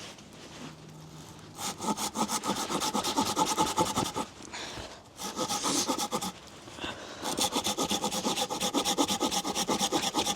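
Hand saw cutting through a log in runs of quick back-and-forth strokes, with two short pauses, and the blade ringing as it cuts. The blade is dull and needs sharpening.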